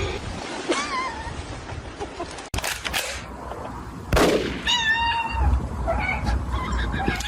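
Short wavering animal calls: one about a second in and a louder one about five seconds in, with a few sharp knocks and clicks between them.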